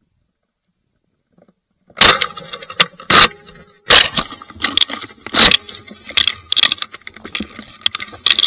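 Loud, irregular rustling and crunching close to the microphone, starting about two seconds in: handling and movement noise, with clothing, gear and brush rubbing as the person filming moves.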